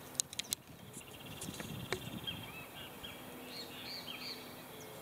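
Outdoor ambience with birds calling: a rapid high trill and then several short, arched chirps. A few sharp clicks come near the start and another about two seconds in.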